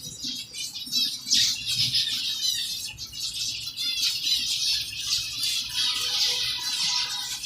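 A flock of zebra finches calling together in an aviary: a dense, continuous chatter of many short, overlapping calls.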